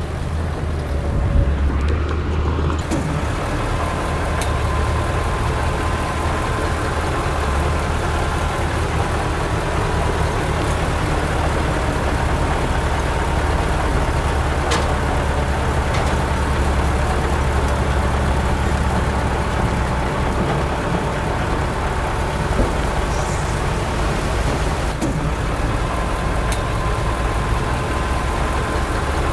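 Heavy diesel earthmoving machinery running steadily with a deep engine drone, with a few sharp clanks.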